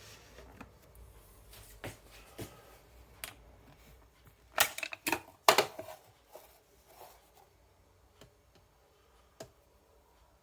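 Scattered clicks and knocks of the Melitta Molino coffee grinder and its grounds container being handled after grinding, with the motor off. A quick run of louder knocks comes about halfway through.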